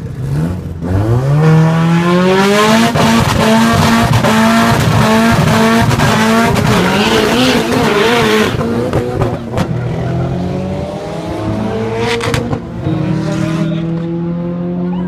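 Cars launching at a drag race: an engine revs up sharply about a second in and runs at high revs with tyre noise for several seconds before it falls away. Near the end another car's engine idles steadily close by.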